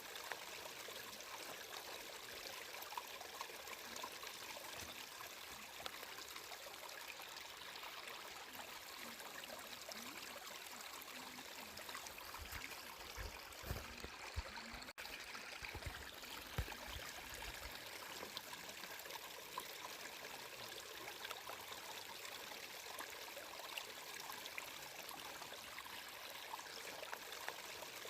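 Water of a stream flowing steadily, an even rush with small trickles and splashes. A few low thumps come around the middle, and the sound drops out for an instant about halfway through.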